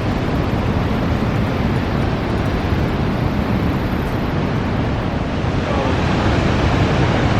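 Steady rushing of water falling at Niagara Falls, with wind buffeting the microphone.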